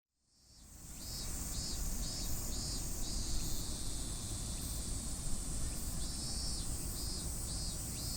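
Insects singing: a steady high buzzing chorus with repeated short chirps, fading in over the first second, over a low rumbling background.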